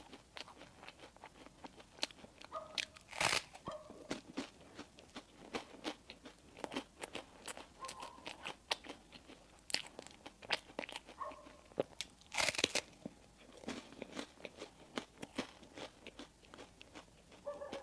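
Close-miked chewing and biting of bakery bread and pastry: a dense run of small wet mouth clicks and crunches, with two louder bites about three seconds in and again about twelve seconds in.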